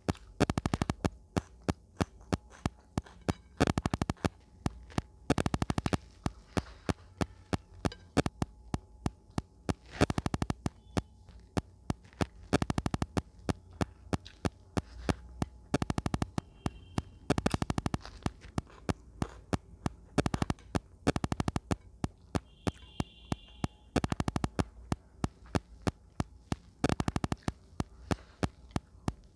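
Close-miked eating: chewing and mouth sounds in repeated bursts of rapid wet clicks and crunches, a few seconds apart.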